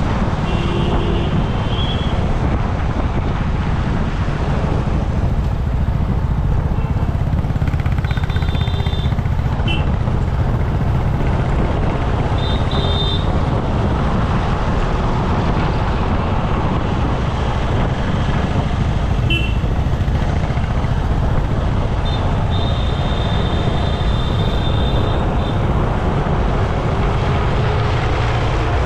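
Steady road and traffic noise with a heavy low rumble, heard from a rider's camera on the move. A few short high tones break through about a second in, around the middle and a longer one near the end.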